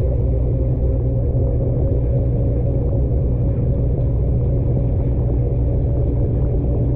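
Washing machine running: a loud, steady low rumble with a faint steady hum.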